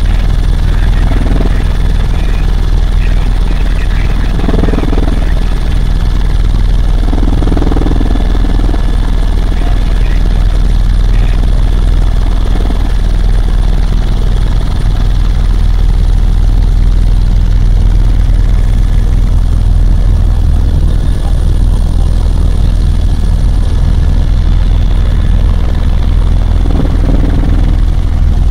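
Helicopter in flight: a loud, steady low rotor drone with a thin, constant turbine whine above it. Faint voices come through a few times in the first seconds and again near the end.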